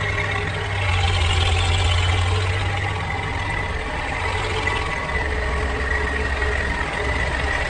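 Tractor engine running steadily with a deep, even hum; its low note drops a little about five seconds in.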